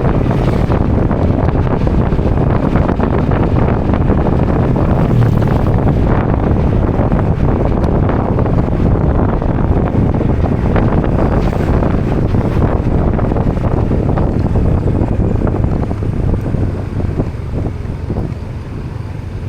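Wind rushing over the camera microphone on a moving motorbike, with the bike's engine and road noise underneath as a steady low rumble. The rush eases off somewhat near the end.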